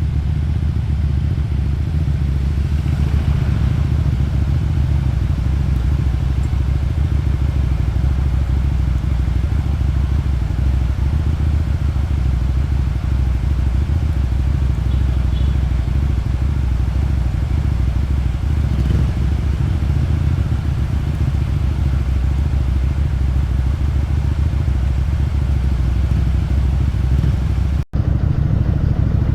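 Motorcycle engine and exhaust running at steady revs, with one brief break in the sound near the end.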